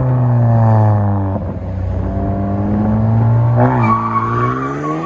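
Honda Civic Sport's turbocharged four-cylinder engine through a straight-pipe exhaust, its muffler and resonator removed and only the catalytic converter kept, driven under load. The revs sag and break off about a second and a half in, build again and dip near four seconds, then climb steadily with a thin whine riding on top.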